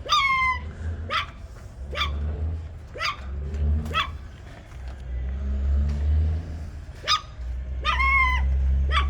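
A dog barking about once a second, short sharp barks with two longer, drawn-out barks, one at the start and one about eight seconds in. A low steady rumble runs underneath.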